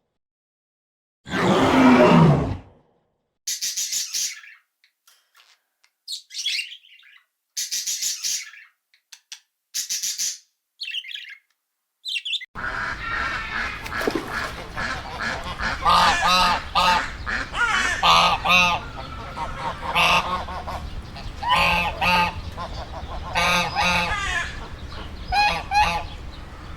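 A loud animal call about two seconds in, then a run of short, high chirps and squeaks, then a group of birds honking repeatedly over a steady background noise.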